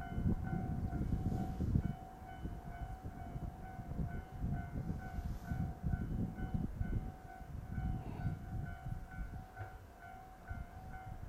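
Low rumble of trains running slowly through a signal station, a green JR 113 series electric train passing the Twilight Express Mizukaze 87 series diesel train. The rumble is loudest in the first two seconds and then comes in uneven surges, over a high ding that repeats a few times a second.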